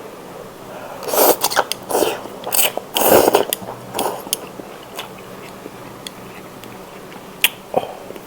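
Close-up eating of spicy seafood tom yum instant noodles: a run of loud, noisy slurps and chewing for a few seconds, then two short sharp clicks near the end.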